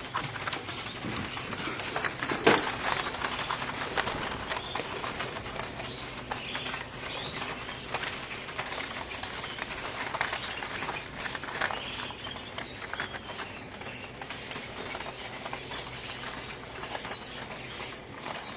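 Gloster canaries giving short chirps and fluttering, mixed with many small clicks, over a steady low hum. There is one sharp knock about two and a half seconds in.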